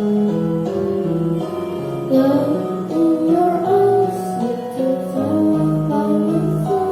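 A child singing over guitar accompaniment; the voice comes in about two seconds in.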